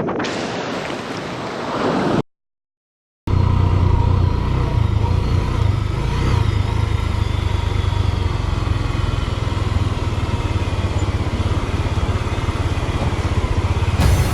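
Motorcycle engine running steadily after a short cut, with a deep pulsing hum. Before the cut there are about two seconds of rushing noise from the stream or wind.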